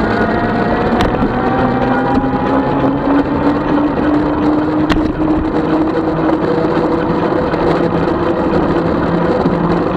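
A 36-volt electric bike's motor whining under steady rolling and wind noise, the whine rising slowly in pitch as the bike picks up speed. A couple of sharp clicks come about one and five seconds in.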